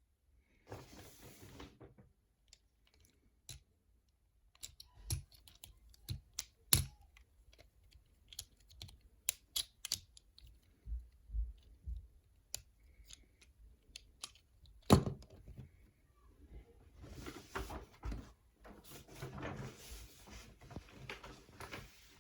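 Irregular hard plastic clicks and snaps from a Transformers action figure being handled, with the loudest snap about fifteen seconds in. Rustling comes briefly near the start and again over the last five seconds.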